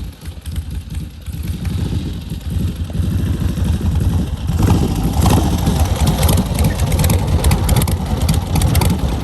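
Motorcycle engines running with a deep, uneven exhaust rumble, growing louder about halfway through as the engine is revved.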